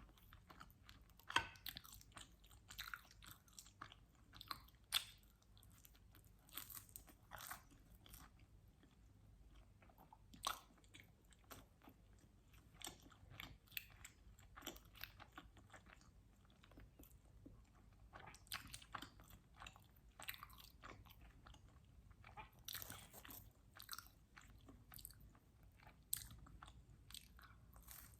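Close-miked chewing and biting of pizza: irregular crunches and short sharp mouth clicks, the loudest about one and a half seconds and five seconds in.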